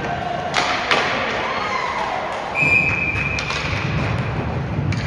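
Ice hockey game in an arena: two sharp thuds of puck, sticks or bodies on the boards early on, then a steady high whistle blast lasting about a second, over constant arena hubbub.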